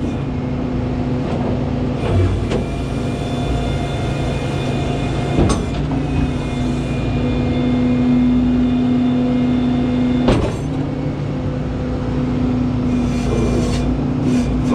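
Rollback tow truck's engine running with the PTO-driven hydraulic pump engaged, a steady mechanical whine that strains louder for a few seconds as the winch snugs the load down. Several sharp metallic clanks come through it.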